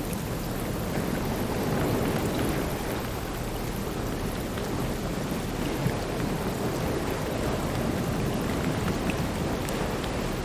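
Ocean waves breaking and washing ashore: a steady rush of surf that swells slightly and eases again.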